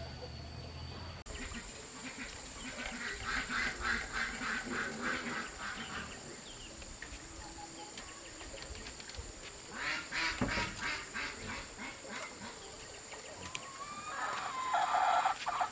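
Domestic ducks quacking in several quick runs of calls.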